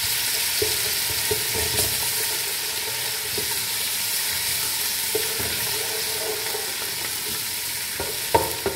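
Crushed onions with garlic-ginger and green chilli paste sizzling steadily in hot oil in a metal pan, stirred with a wooden spoon that scrapes across the pan every second or so, once more loudly near the end.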